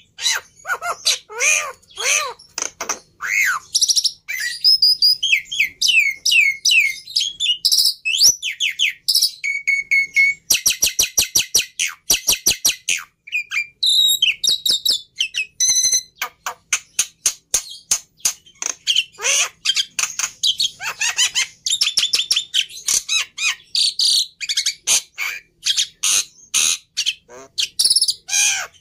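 Black-winged myna (jalak putih) singing a loud, varied song: chattering calls and runs of repeated falling whistled notes, with a fast rattling trill about ten seconds in.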